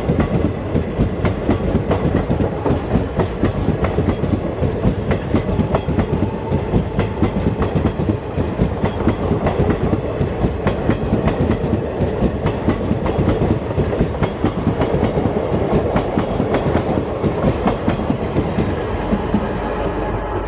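Express passenger train passing close by, its wheels clattering steadily over the rail joints in a rapid run of clicks over a low rumble.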